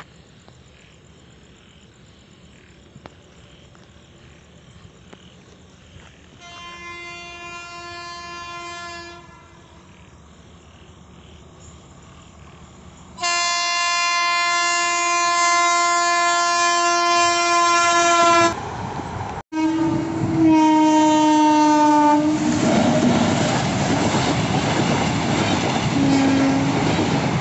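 Locomotive horn sounding three times as a train approaches: a blast about six seconds in, a longer, louder one from about thirteen seconds, and a shorter one around twenty seconds. Then comes the loud, steady rushing noise of the train running past.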